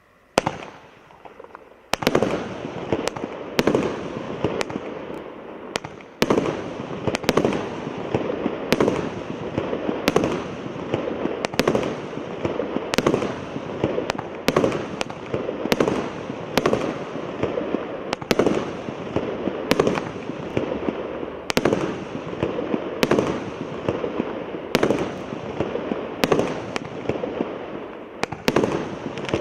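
Multi-shot firework battery Р7048 «С Рождеством!» firing: one report just after the start, then from about two seconds in a steady volley of sharp bangs, roughly one to two a second, with crackling in between.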